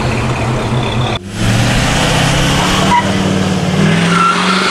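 Engines of vehicles driving slowly out of a car meet, running at low revs. An abrupt cut about a second in switches to another vehicle's steady engine note, likely a pickup truck's.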